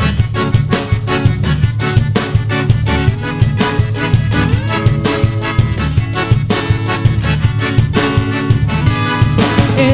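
Instrumental break of a forró-style São João song: the band plays on with a steady drum beat and pitched instruments, no singing.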